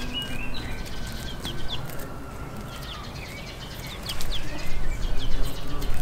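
Short, high bird chirps, several a second at times, over a low rustling noise that grows louder about four seconds in.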